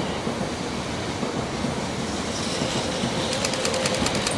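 Tokaido Shinkansen train running past on the near track, a steady rumble of wheels and rushing air that grows a little louder as it draws level. Near the end comes a quick run of sharp ticks.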